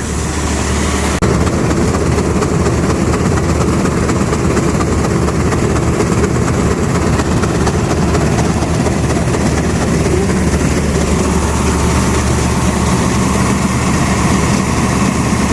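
Tractor-driven grain auger running steadily with a low engine hum, unloading wheat from the bin. The noise gets suddenly louder about a second in.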